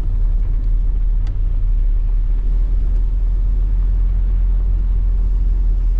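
Steady low rumble of a pickup truck driving on snowy roads, engine and tyre noise heard from inside the cab.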